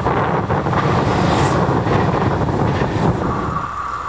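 Electric locomotive-hauled passenger train running past close by with a loud, steady rumble. About three and a half seconds in it gives way to a steady high wheel squeal from a train approaching at a distance.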